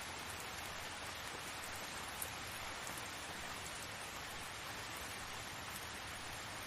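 Steady rain falling, an even hiss with faint scattered drop ticks and one small tick about two seconds in.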